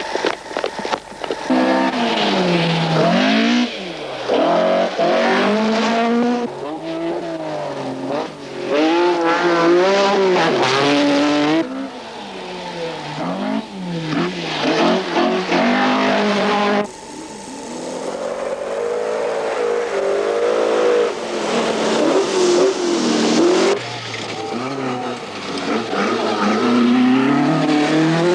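Rally car engines revving hard, pitch climbing and dropping again and again through gear changes. Several passes are cut together, with abrupt changes about 12, 17 and 24 seconds in.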